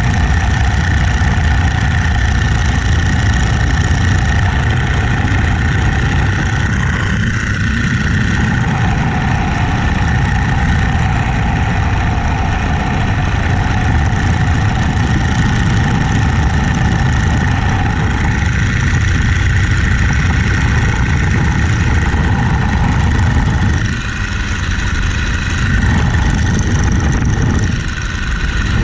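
Boeing-Stearman Model 75 biplane's radial engine running steadily with propeller and wind noise. Its sound dips briefly a few times, about 7, 19, 24 and 28 seconds in.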